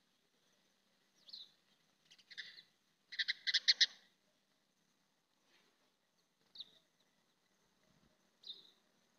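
Bird calling: short, separate chirps, with a quick run of about six notes a little after three seconds in, then two more single calls spaced a couple of seconds apart.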